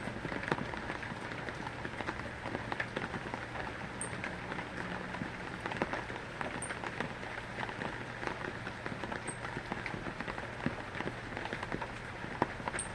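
Heavy rain falling steadily, with many individual drops landing as sharp ticks. A short high peep comes through about four times.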